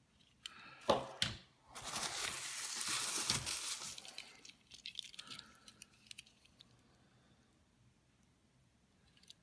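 Packaging wrap crinkling and rustling for a couple of seconds as a wrapped diecast toy car is handled, after a few short knocks.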